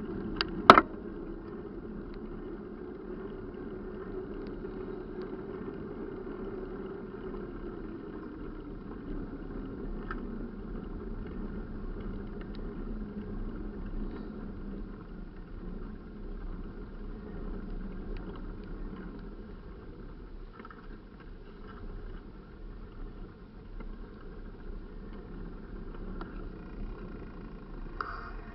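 A steady engine drone whose hum sinks in pitch about a third of the way in and then holds, with a sharp click near the start.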